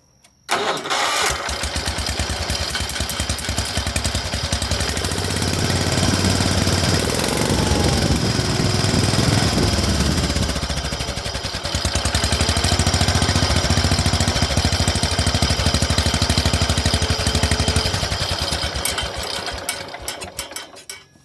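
Small garden-tractor engine starting about half a second in and running through a newly fitted exhaust stack. Its sound shifts in the middle as the speed changes, then it dies away near the end.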